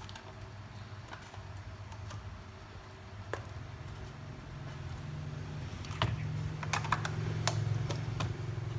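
Scattered small clicks and taps, bunched together in the second half, over a steady low hum that rises slightly in pitch and loudness partway through.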